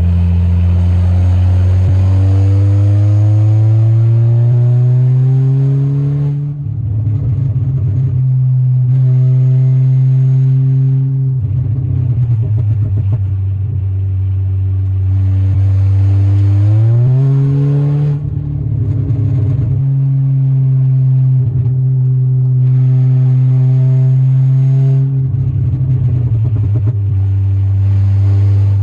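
Stage 3 tuned Volkswagen Golf R's turbocharged 2.0-litre four-cylinder engine and exhaust pulling through the gears: the engine note rises steadily for about six seconds, drops and holds, then climbs quickly again near the middle. Short spells of rapid popping come where the note drops.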